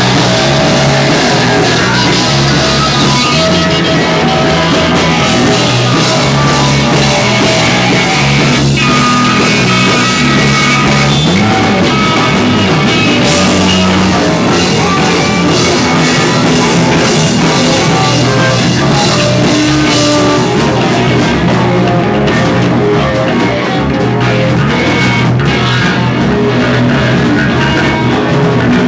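Live rock band playing a loud, hard song: distorted electric guitars over a drum kit, with no vocals. Around two-thirds of the way through the drums thin out briefly and the guitars carry on.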